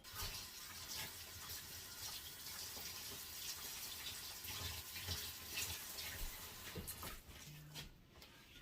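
A steady rush of running water, like a tap running, starting abruptly and easing off about a second before the end.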